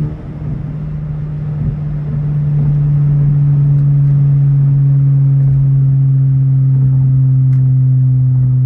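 Modified Honda Civic Type R FL5's turbocharged four-cylinder engine and exhaust droning at steady revs. It grows louder over the first two or three seconds, then holds loud and even, its pitch sinking slowly.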